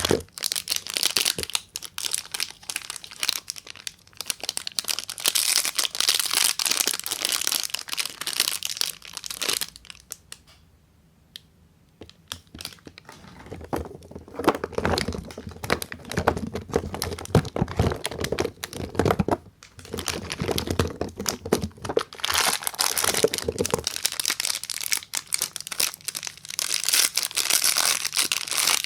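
Soap wrapper being crinkled and torn open with the hands, a dense crackling with a short pause about a third of the way in.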